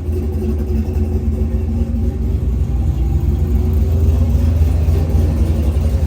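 Truck's 6.0-litre V8 with a stage 4 cam running with a deep exhaust rumble, the revs climbing briefly in the middle before settling.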